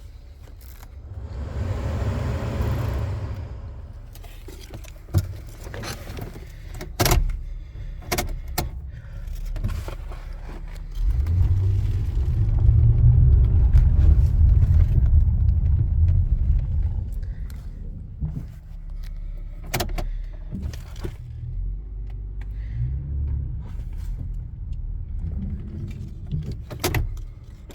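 Keys jangling and sharp clicks from handling a 2008 Honda Ridgeline pickup, over a low rumble from the truck. The rumble grows louder for several seconds midway.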